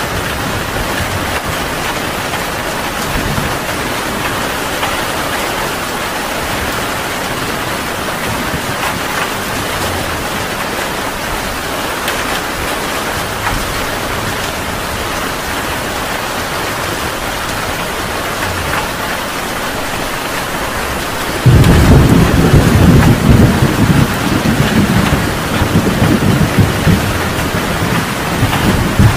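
Heavy rain pouring steadily. About two-thirds of the way through, a sudden, loud crack of thunder breaks in, and its deep rumble rolls on unevenly to the end.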